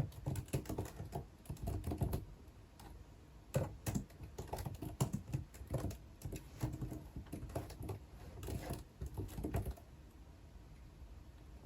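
Typing on a computer keyboard: quick runs of key clicks in bursts of a second or two, broken by short pauses, with a longer lull near the end.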